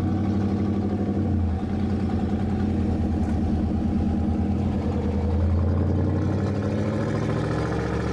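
Pickup truck engine running at idle, steady and evenly pulsing, swelling slightly about two-thirds of the way through.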